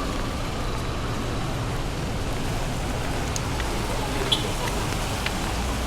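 Steady heavy rain mixed with the rumble of road traffic, with a few light ticks and one sharper tap about four seconds in.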